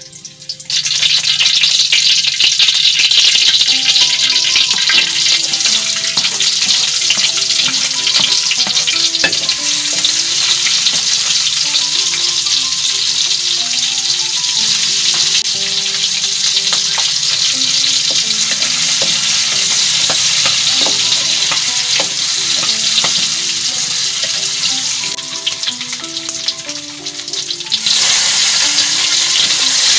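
Hot oil sizzling in a wok as sliced shallots, garlic and red chilies fry, stirred with a spatula. The sizzle starts suddenly about a second in, drops briefly near the end, then comes back louder. A soft melody of single notes plays underneath.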